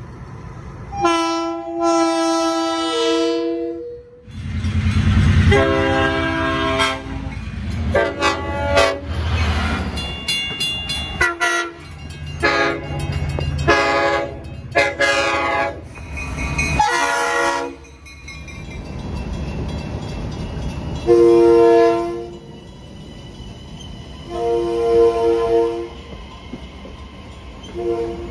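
Long Island Rail Road train sounding its multi-chime air horn again and again as it passes: about ten blasts, long and short, with the low rumble of the train under them through the middle, then three more blasts spaced out near the end.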